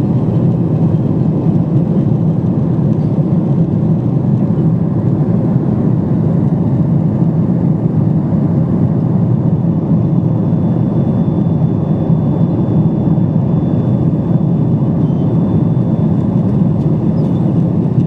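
Steady cabin noise of a Boeing 777-200 airliner in flight: an even rumble of engines and airflow, with a faint high tone coming in about six seconds in.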